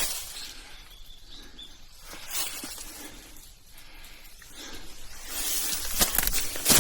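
A hiker's footsteps crunching and rustling on a rough mountain trail. They are quieter in the middle and get louder again from about five seconds in.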